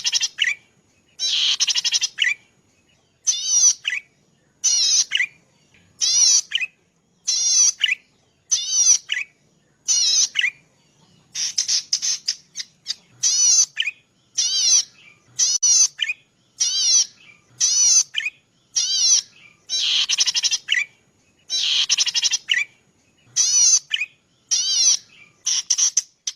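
Zitting cisticola (cici padi) singing: short bursts of rapid, high repeated notes, each burst under a second long, coming again and again roughly every second and a half.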